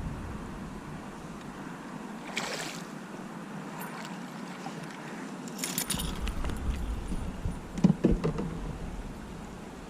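Handling knocks and rattles in a solo canoe, with a rattle about two seconds in, a cluster of clicks near six seconds, and the loudest, a hollow knock against the hull, about eight seconds in, over low wind rumble on the microphone.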